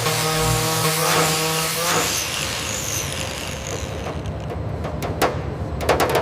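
A steady mechanical hum with a fixed pitch for about two seconds, fading into a hiss, then a series of sharp clicks and knocks near the end.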